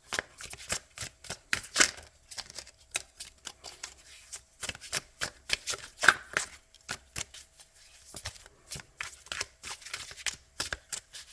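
A deck of oracle cards being shuffled by hand: many quick, irregular papery card snaps and flicks.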